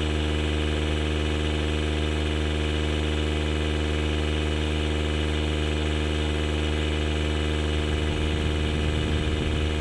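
DeWalt cordless tire inflator's compressor running steadily under load, a constant hum with a low buzz, while it pumps air into a large tube-type truck tire. It is a little noisy.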